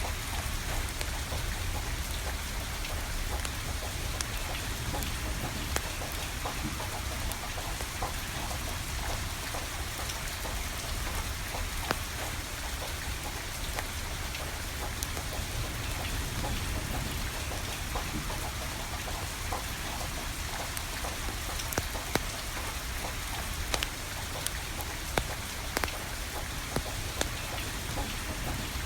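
Steady rain falling, with the crackle of burning firewood: scattered sharp pops throughout, a few of them louder.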